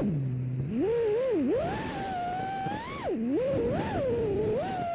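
FPV quadcopter's brushless motors and propellers whining. The pitch starts low, climbs, and swoops up and down with the throttle, dropping sharply twice, over a rushing hiss.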